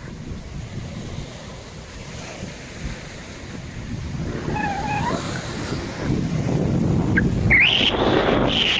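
Sea surf washing onto the beach, with wind buffeting the microphone; the rush swells louder in the last few seconds. A few short high-pitched cries come through about halfway and again near the end.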